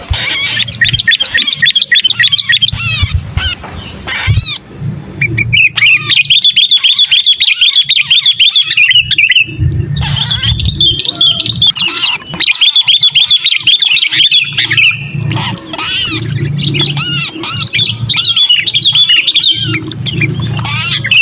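Sooty-headed bulbuls (kutilang) giving rapid, repeated chirping calls in four long bouts with short pauses between them, over a low rumble. These are the 'kejepit' calls of a bulbul caught or pinched in a trap, used as a lure to draw other bulbuls down.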